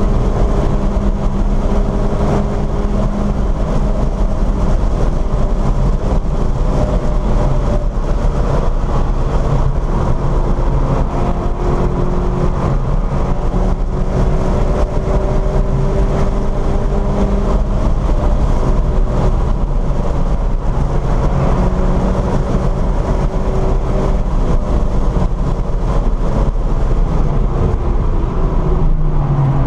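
VW Scirocco's engine heard from inside the cabin at speed on track, over steady road and wind noise. The engine note climbs slowly as the car pulls through a gear, then drops near the end as the car slows for a bend.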